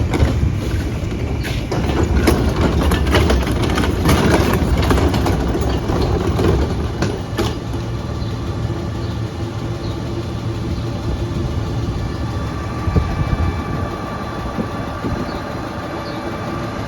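Autocar ACX garbage truck with a Heil DuraPack Half/Pack body, its engine running, with a run of clanks and knocks over the first half. The sound then settles into a steadier engine note with a faint even whine.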